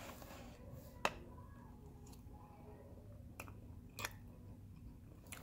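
Quiet chewing of a mouthful of soft cinnamon roll, broken by four sharp clicks, the loudest about a second in. A faint steady hum runs underneath.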